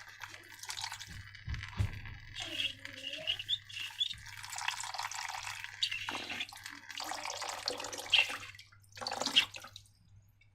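Liquid slime mixture pouring and squeezing out, with irregular wet drips and a gurgle or two, going quiet near the end.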